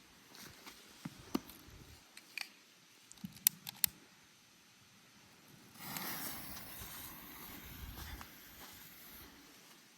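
A few sharp clicks, then a lit firework bursts into a hiss about six seconds in that lasts roughly three seconds before fading.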